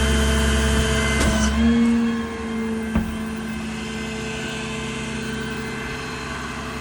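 Ram 5500's Cummins 6.7 L inline-six diesel running steadily. The deeper, louder part of its sound falls away about two seconds in, leaving a quieter steady run, and a single sharp click comes about a second later.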